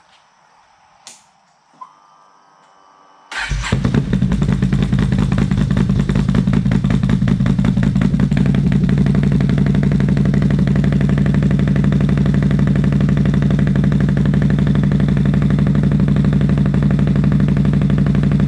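Can-Am XMR ATV's V-twin engine, through an SLG Performance Series aftermarket exhaust, comes on suddenly about three seconds in and then idles steadily and loudly. A few faint clicks come before it.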